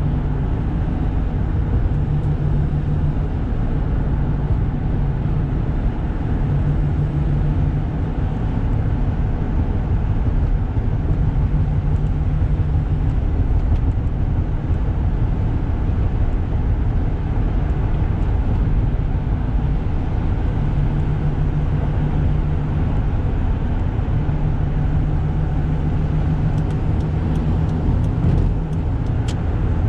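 Toyota Granvia van's 1KZ-TE 3.0-litre turbo diesel running under way, heard from inside the cabin with road and tyre noise. A steady drone whose low engine note comes and goes every few seconds.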